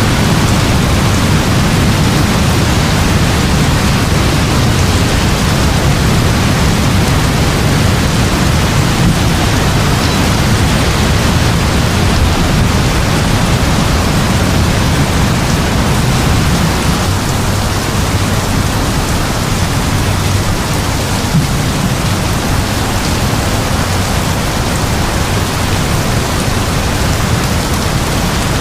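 Heavy rain falling in a steady, loud hiss, with a deep low rumble underneath; it eases slightly about two thirds of the way through.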